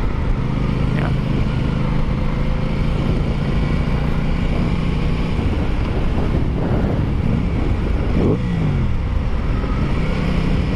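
Aprilia Tuono 660's parallel-twin engine running at steady road speed under wind and road noise. About eight seconds in, the engine note drops and then climbs again.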